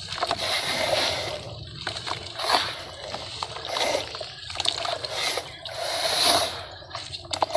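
Dry sand-cement lumps crumbling by hand, a crackly rush about once a second with the trickle of falling grit and fine clicks.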